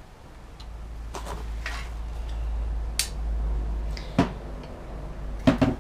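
A few scattered clicks and light knocks, about five in all, over a low steady rumble that swells in the middle.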